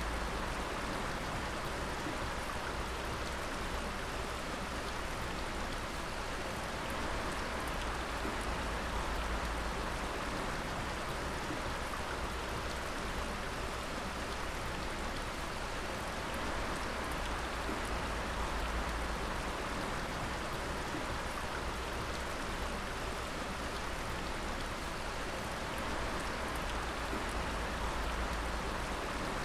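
Dripping water: many drops falling and splashing in a dense, even patter that stays steady.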